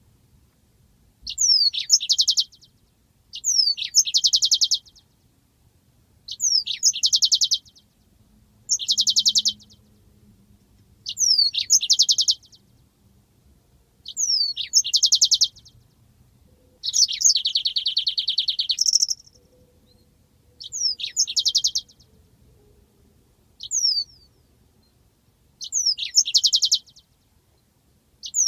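Yellow-fronted canary (Mozambique canary) singing: about a dozen short high phrases, roughly one every two seconds, each a quick downward-sweeping note or two running into a rapid rolling trill. About halfway through, one trill runs longer and ends on a higher note.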